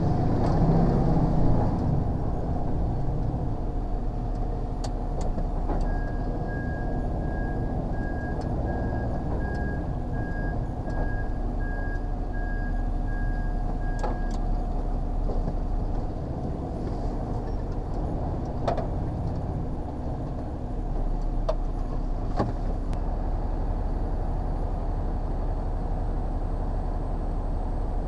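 Diesel engine of an HGV lorry running steadily as it is manoeuvred. From about six seconds in, a series of high electronic beeps sounds for about eight seconds, and a few sharp clicks come through.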